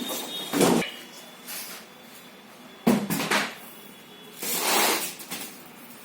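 Handling noises: a knock and rustle about half a second in, a sharp clatter of quick knocks around three seconds, and a longer rustling scrape near five seconds.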